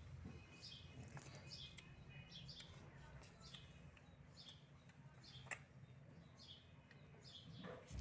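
Faint bird chirping: short, falling chirps repeated a few times a second, with a single soft click about halfway through.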